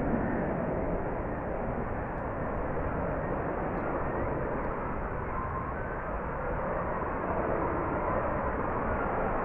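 F-35B Lightning's single Pratt & Whitney F135 jet engine running, a steady, even jet noise that eases slightly in the middle and builds again toward the end.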